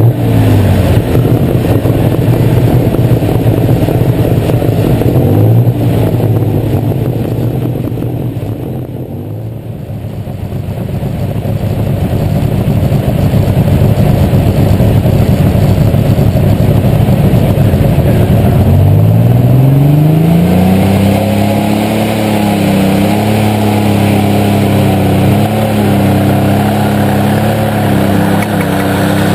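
Light Super Stock pulling tractor's engine heard on board, running loud and dipping briefly about nine seconds in. About eighteen seconds in it revs up sharply and holds at high revs with a wavering pitch.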